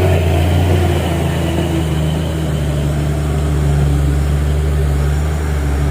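Heavy truck's diesel engine running steadily, a loud low drone with no revving.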